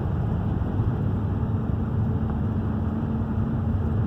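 Steady in-cabin driving noise of a van on the road: engine and tyre rumble with a faint constant hum, no change in pace.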